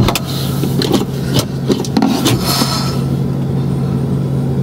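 Steady low hum of a car engine idling, heard from inside the cabin, with scratching and rustling sounds over the first two seconds or so.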